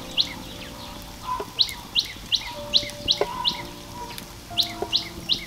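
A bird singing: short rising chirps, about three a second, in repeated runs of four or five notes, each chirp followed by a softer, lower note.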